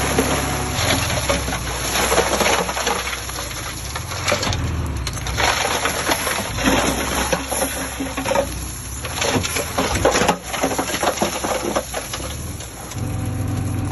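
Loose dirt and stones sliding and tumbling with a dense crackle of small knocks and rattles, over a diesel engine running low. The engine's steady hum comes back up near the end.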